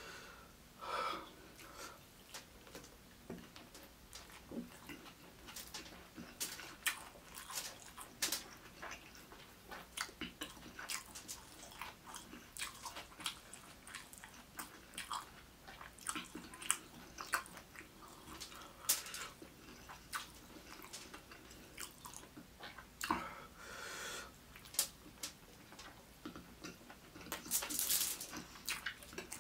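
Close-miked chewing of fried rice eaten by hand: many small wet mouth clicks and smacks, with a few short breathy hissing noises.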